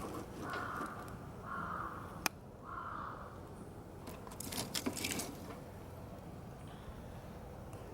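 A crow cawing three times, about a second apart, over a campfire. The fire gives a sharp pop about two seconds in and a cluster of crackles and snaps around four to five seconds in.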